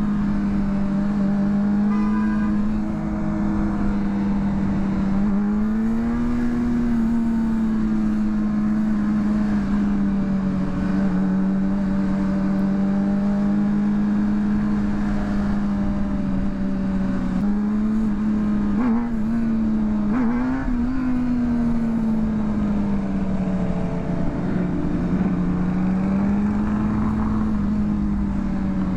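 Honda CBR600RR's inline-four engine running at steady riding revs, its pitch rising and dipping gently a few times, under wind and road noise.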